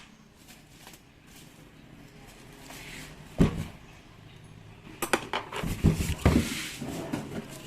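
Metal parts of a rotary hammer being handled during disassembly: a single knock about three and a half seconds in, then a run of clinks and knocks near the end.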